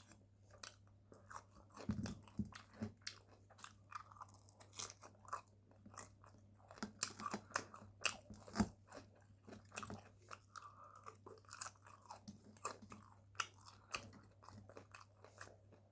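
A person chewing food close to the microphone: an irregular run of soft crunches and wet mouth clicks.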